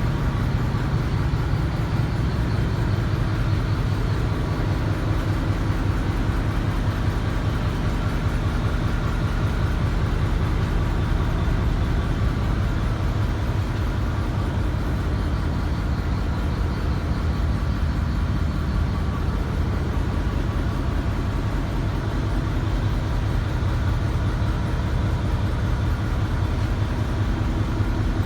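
Ship's engine running steadily up close: a loud, unchanging low drone with a fast, even beat.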